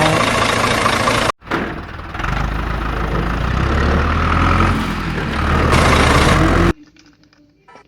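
A vehicle engine running with a steady low rumble under a noisy hiss. It drops out for a moment a little over a second in, comes back, and stops abruptly near the end.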